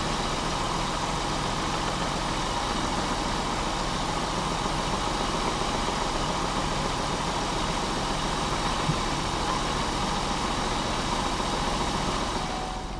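Pontiac Bonneville's blown 3.8 V6 idling steadily. The engine has rod knock and coolant mixed into the oil. The sound drops off just before the end.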